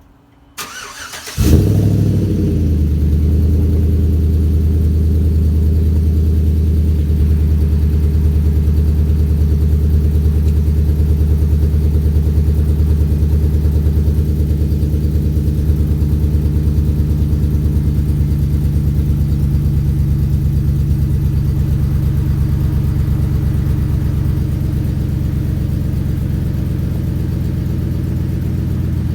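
2010 Chevrolet Avalanche's 5.3-litre V8, breathing through short-tube headers and a 3-inch cat-back with a Borla XR1, starts up: a brief crank, then the engine catches with a quick flare of revs about a second and a half in. It then settles into a steady, deep idle that eases slightly lower after about twenty seconds.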